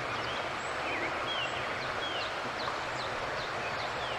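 Small birds chirping repeatedly, short quick calls, over a steady outdoor background hiss.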